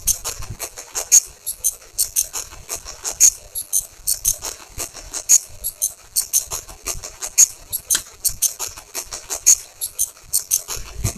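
Rapid, sharp high-pitched clicking and rattling in a steady repeating rhythm, with a louder click about every two seconds.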